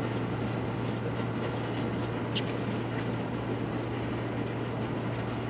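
Air conditioning unit running steadily with a constant low hum.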